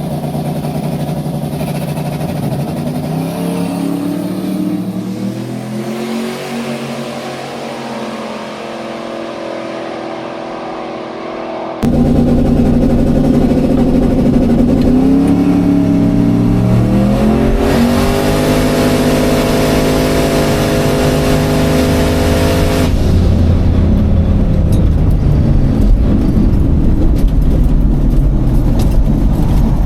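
A drag-racing car engine revving and accelerating, its pitch climbing. About twelve seconds in an edit cuts to a louder run, where the engine climbs to high revs, holds there for several seconds with a rush of noise, then drops back.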